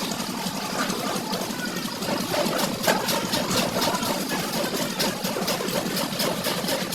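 An engine running steadily with a rapid, uneven clatter.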